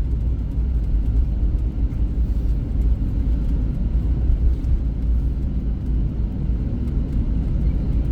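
Cabin noise of a Boeing 737-800 heard from inside the passenger cabin: a steady low rumble from its CFM56-7B engines and the airframe, with no distinct events.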